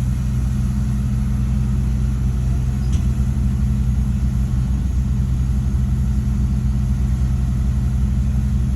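Heavy diesel engine of earth-moving machinery running steadily at an even speed, a deep unchanging drone.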